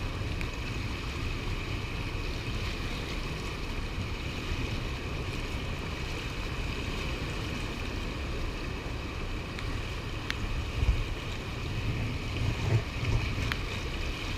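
Gusty wind buffeting the microphone over the steady rush of river water, with a few low thumps and two short clicks near the end.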